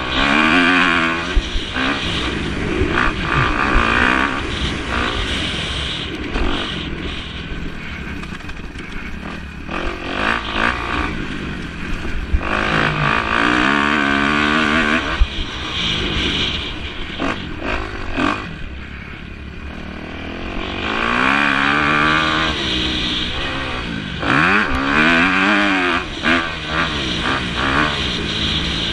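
Motocross bikes racing past, their engines revving, with the pitch rising and falling on the throttle. They come by in several loud waves, easing off in between.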